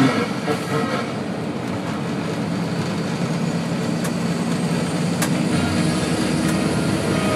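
Steady road and engine noise inside a moving truck's cab, with a few light clicks.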